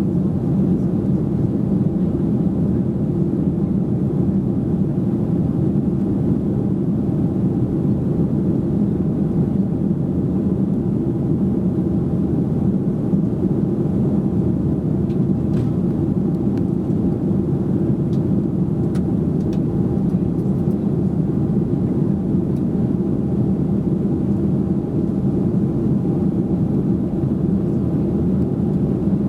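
Steady cabin drone inside a Boeing 737-800, its CFM56 engines running with a deep, even rush.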